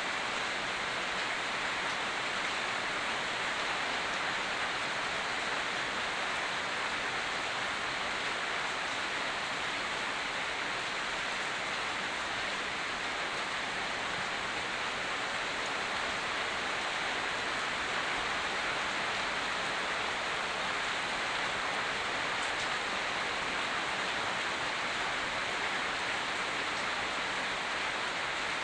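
Steady heavy rain, an even unbroken hiss with no single drops standing out.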